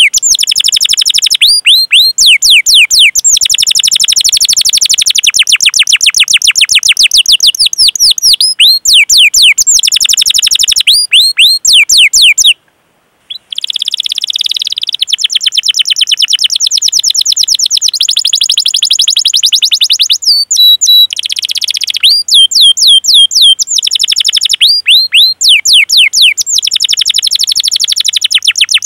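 Domestic canary singing long rolled phrases of rapid, repeated high chirps, each note a quick falling sweep. The song cuts out for under a second near the middle, then carries on.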